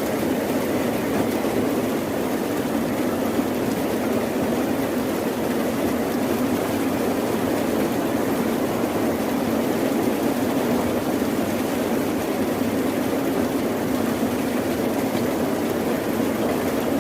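Steady rushing sound of heavy rain, even in level with no distinct drops or surges and most of its weight in the low middle.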